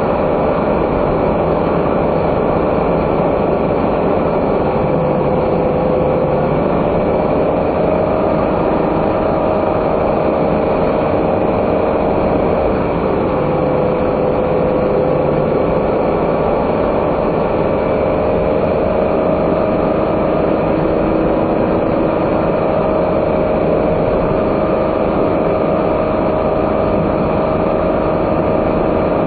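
A non-turbo kei car's engine and road noise heard from inside the cabin, running steadily, with the engine's tone drifting slightly up and down.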